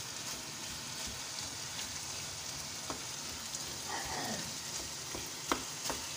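Chicken mince, still wet with its own juices, sizzling in a nonstick pan while a wooden spatula stirs and breaks it up. A few sharp taps of the spatula against the pan come near the end.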